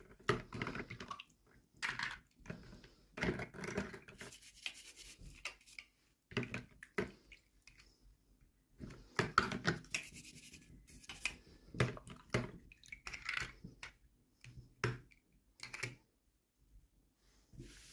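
Hands handling toy packaging and small plastic pieces: irregular rustling, scratching and small clicks in short bursts, with brief pauses between.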